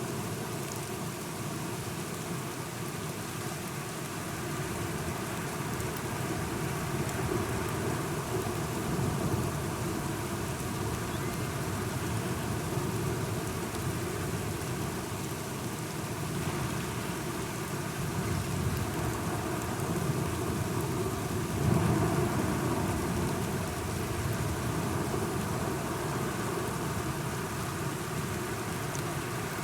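Steady rain falling, with low rolling thunder that swells twice, the louder roll about three-quarters of the way through.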